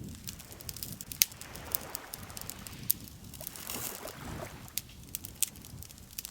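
Wood campfire crackling, with irregular sharp pops scattered through, several standing out loudly. Underneath, soft swells of lake water lapping that rise and fall.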